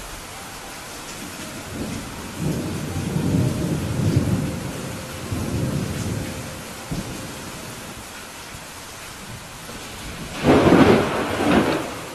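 Steady rain with rolling thunder: low rumbles from about two to six seconds in, then a louder clap of thunder near the end.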